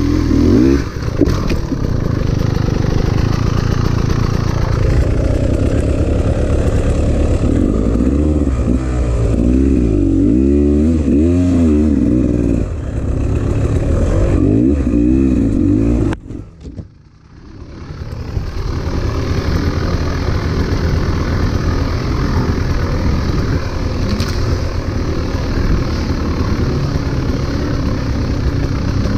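Beta 300 RR two-stroke enduro motorcycle engine revving up and falling back again and again on a rough dirt trail, under load on a steep grassy climb. About sixteen seconds in the engine sound drops away almost completely, then builds back and runs on steadily.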